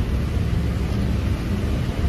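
Steady low rumble with an even hiss over it: heavy rain and street traffic outside.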